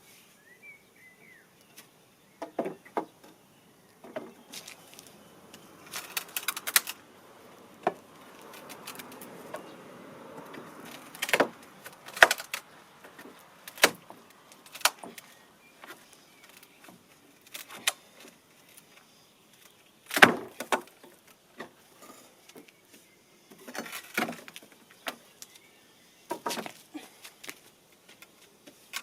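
Irregular clatters and knocks of hand work with tools and materials, sharp impacts a second or two apart, some in quick clusters, with a few seconds of scraping and rustling about a third of the way in.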